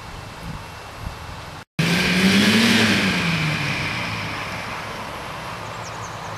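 Four-wheel-drive engine running steadily, then, after an abrupt cut, an engine revving hard, its pitch climbing and falling away again about a second and a half later, loudest just after the cut and easing back to a steady run.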